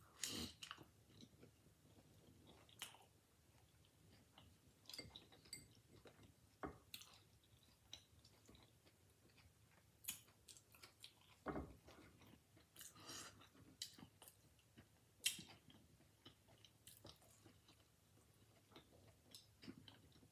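Faint chewing of a crunchy hard-shell taco, with scattered crisp crunches of the fried shell breaking.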